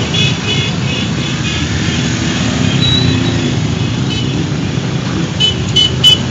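A stream of motorcycles passing with their engines running, with quick runs of short horn beeps at the start and again near the end.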